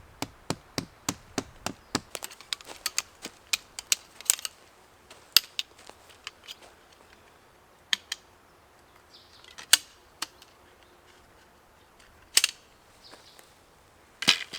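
A quick, even run of sharp knocks, about three a second, for the first four seconds or so, then a few scattered louder knocks.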